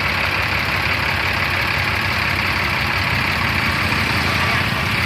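Tractor diesel engine idling with a steady, even low chug.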